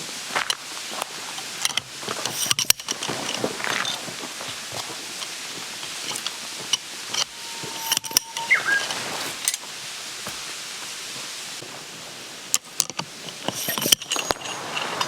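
Scattered clinks, clicks and rattles of small hard objects being handled, with a short whistle-like tone and a brief rising-then-falling chirp about eight seconds in.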